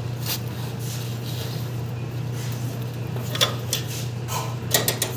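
A few short metallic clinks and knocks from tools and metal parts as an air conditioner's compressor is unbolted and taken out, the sharpest about three and a half seconds in and a quick cluster near the end, over a steady low hum.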